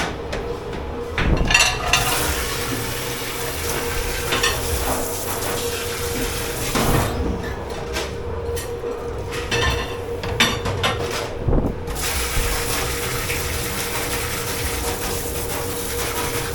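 Running water at a dishwashing sink, in two long spells, with dishes and pans knocking now and then. A steady machine hum sits underneath.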